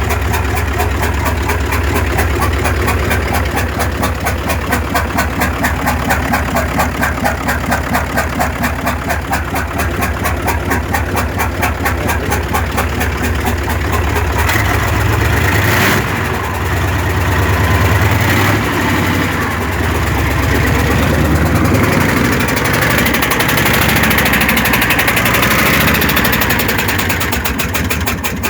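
Honda F20C inline-four engine running just after starting, at a steady, evenly pulsing idle. About halfway through, its pitch and tone change as the engine speed varies.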